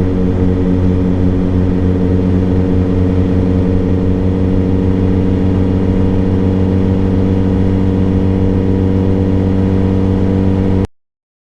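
Suzuki GSX-R600 inline-four motorcycle engine idling steadily at a constant pitch. The sound cuts off suddenly near the end.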